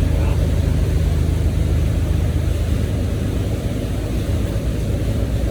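A motorboat's outboard engines running steadily underway, a low, even drone.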